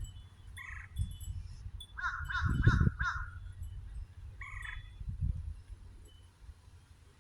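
Birds calling: short, harsh calls, with a quick run of four about two seconds in and single calls before and after. A low rumble swells and fades beneath them, loudest under the run of calls.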